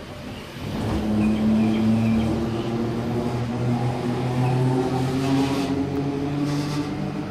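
Train accelerating, its motors starting up about a second in and rising slowly in pitch as it gathers speed.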